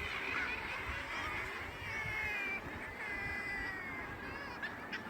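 A seabird colony on a sea cliff: many gulls and other seabirds calling at once, their calls overlapping without a break, over a low rumble, with a few sharp calls near the end.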